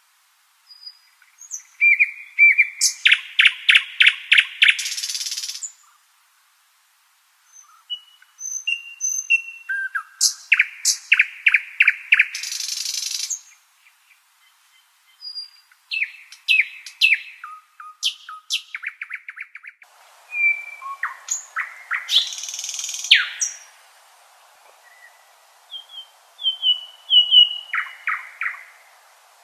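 Nightingale singing, five loud song phrases separated by short pauses. Each phrase is made of rapid runs of repeated notes and whistles, and the first two end in a harsh buzzy rattle.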